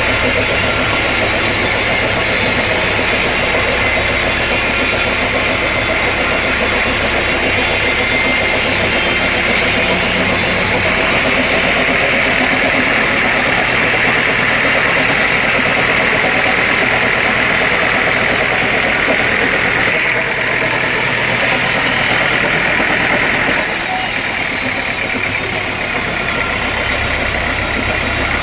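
Sawmill saw machinery running steadily and loudly, with a constant high whine. The sound changes abruptly a few times, about 11, 20 and 23 seconds in.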